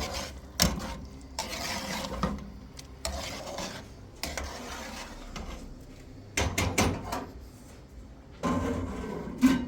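Repeated scraping strokes with several sharp knocks and clatters of hard objects, as of a utensil worked against a pot.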